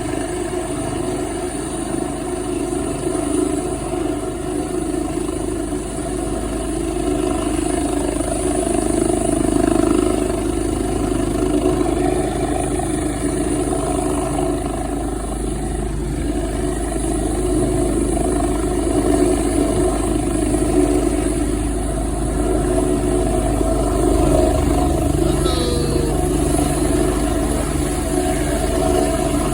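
Helicopter's engine and rotors running steadily, a constant drone with a thin high whine above it.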